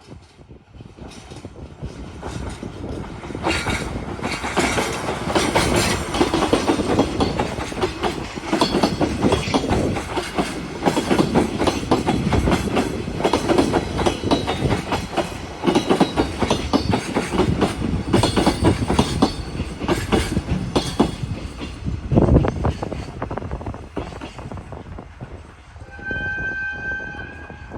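KE65 diesel locomotive hauling a container freight train past, its engine running and its wheels clattering over the rail joints, loudest in the middle as it goes by. Near the end the train noise fades and a horn sounds once briefly.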